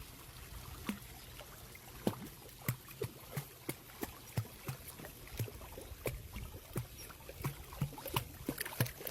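Irregular small wet clicks and drips, about two to three a second, over a faint hiss.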